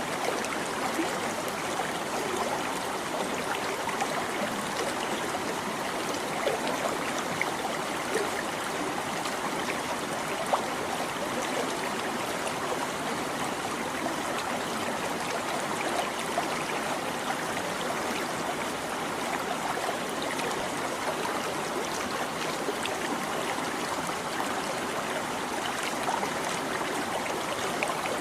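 A shallow stream babbling and trickling over stones, a steady rush of water with many small splashes and gurgles.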